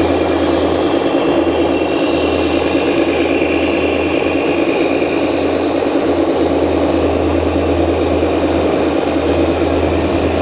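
A 1/14-scale radio-controlled construction machine running with a steady, unchanging engine-like drone.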